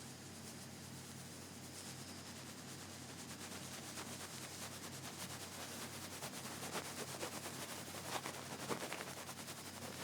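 Feather-tipped ear pick brushing and rubbing against an ear microphone: a soft, continuous scratchy rustle with tiny crackles that grows busier and a little louder toward the end.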